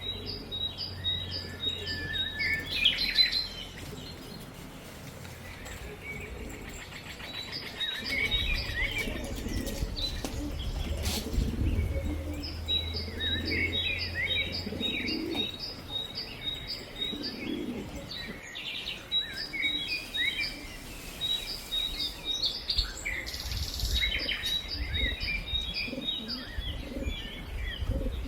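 Small birds chirping and singing, with runs of quick, evenly repeated high notes and a low rumble at times.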